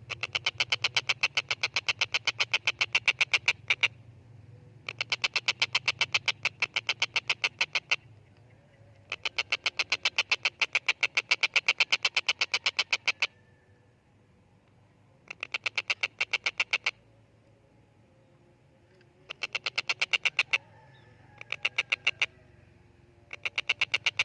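Tengkek buto kingfisher giving its loud rattling call: bouts of rapid, evenly repeated sharp notes, each lasting one to four seconds, seven times over with short pauses between. A faint low hum lies underneath.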